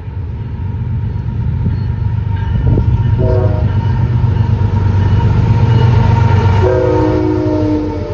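Train passing close by, its locomotive rumbling loudly and building. Its multi-note horn sounds a short blast about three seconds in and a longer blast near the end.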